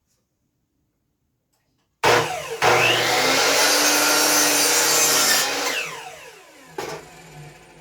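Electric power saw spinning up and cutting through wood, its motor pitch falling as it winds down after the cut, followed by a single knock.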